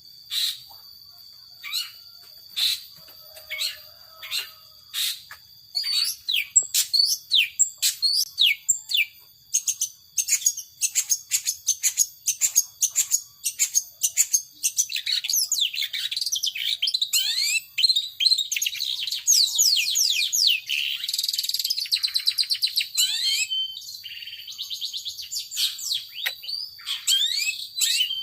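Long-tailed shrike (cendet) singing: sharp single high calls about once a second, then from about six seconds in a fast, dense run of high descending notes, with a harsher buzzy stretch about three quarters through.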